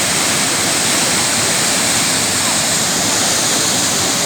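Fast mountain water rushing steadily and loudly.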